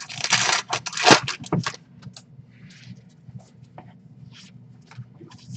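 Trading cards being handled and flipped: dense rustling with sharp clicks for about the first two seconds, then only sparse soft clicks.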